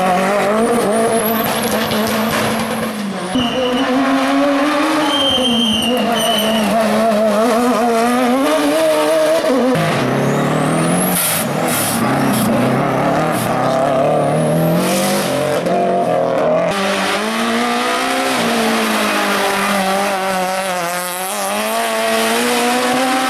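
Race car engine revving hard on a hill climb, its pitch repeatedly climbing and dropping as it accelerates, shifts gear and lifts off. The sound changes abruptly about ten seconds in and again a few seconds later.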